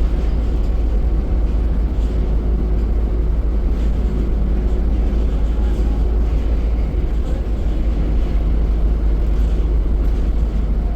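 Diesel engine of a Scania K310 bus running steadily: an even, strong low rumble with a constant engine hum, no revving up or down.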